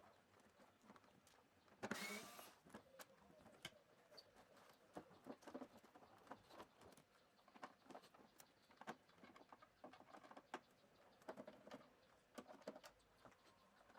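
Faint scattered clicks and knocks of hands and tools working on an LCD TV being taken apart, with one louder scraping rustle about two seconds in.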